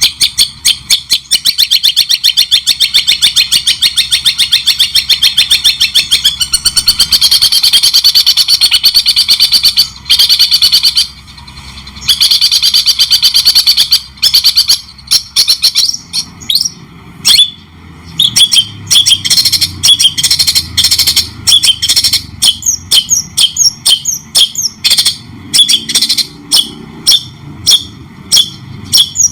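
Long-tailed shrike (cendet) calling: a fast, harsh rattling chatter of sharp notes for about ten seconds, a brief pause and another burst, then separate sharp chipping notes, several a second, in the second half.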